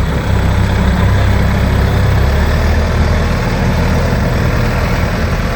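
Tractor-loader backhoe's engine running steadily at low speed while the machine drives in first gear.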